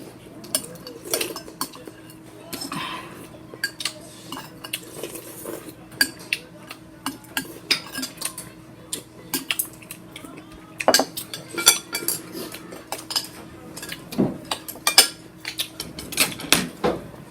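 Cutlery clinking and scraping against a bowl in many short, irregular clinks, over a faint steady hum.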